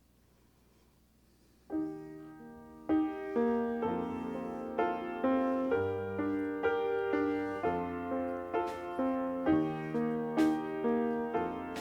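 Piano starts about two seconds in and plays a slow introduction in broken chords, one note after another, each fading as the next comes in, leading into a congregational worship song.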